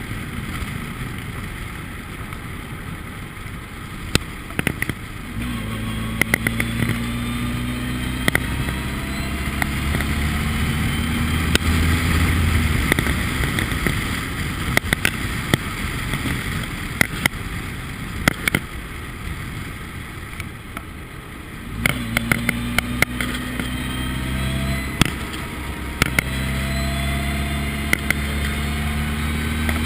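Formula Ford race car's engine running under load, its pitch climbing from about five seconds in and fading midway, then coming back on sharply near the end and climbing again, over a constant rush of wind and road noise with scattered sharp clicks.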